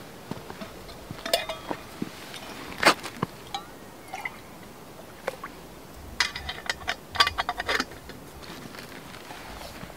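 Camp gear being handled: scattered light knocks and clicks, with two short runs of ringing metallic clinks about six and seven seconds in.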